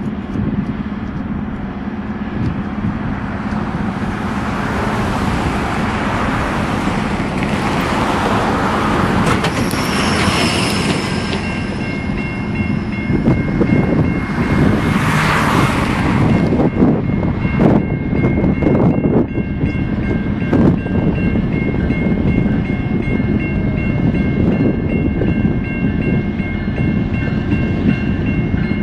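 Freight train passing: a GE ES44AC diesel locomotive's engine drone, then a long string of hopper cars with their wheels clicking over rail joints. A steady high-pitched ringing joins about twelve seconds in and carries on.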